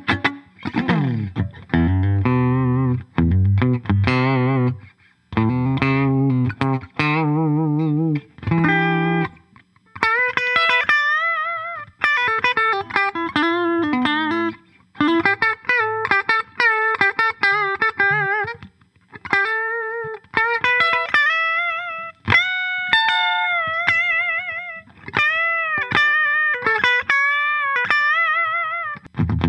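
Clifton Alnico Stratocaster electric guitar played through effects. For the first nine seconds or so it plays low chords whose pitch wavers. From about ten seconds in it plays a single-note lead melody with string bends and vibrato.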